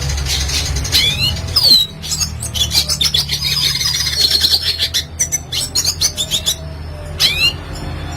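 Red siskin singing: quick rising chirps, then a long fast twittering trill in the middle, and another rising chirp near the end.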